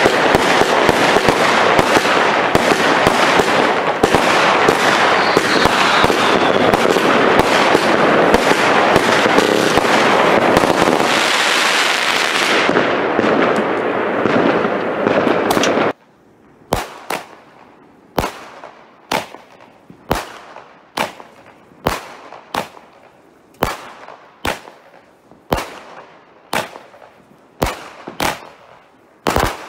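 Consumer battery fireworks firing. First comes a dense, continuous barrage of crackling and bangs, which thins to a hissing crackle near the middle and then stops abruptly. After that come about twenty single loud shots, a little under a second apart, each with a short tail.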